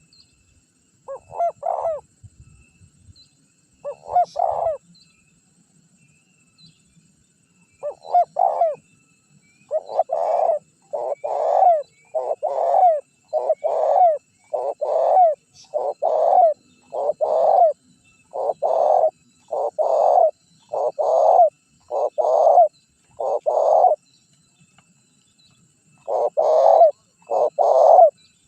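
Spotted dove (tekukur) cooing, as used for a lure call: a few spaced coos at first, then from about ten seconds in a steady run of about one coo a second, a short pause near the end, then cooing again.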